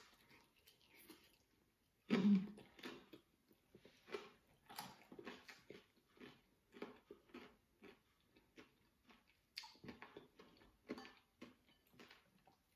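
Close-up chewing of a fried lumpia (Filipino spring roll): a run of short chewing sounds, about two to three a second, with a louder burst about two seconds in.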